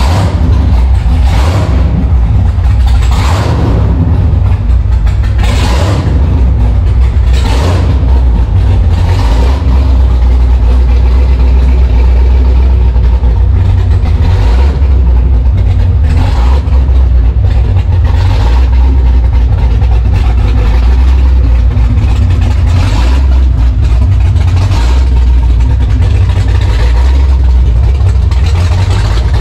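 Cammed, Kong 2650-supercharged 427 LSX V8 running loud, revved in short throttle blips every second or two for the first half, then running more steadily with only an occasional blip.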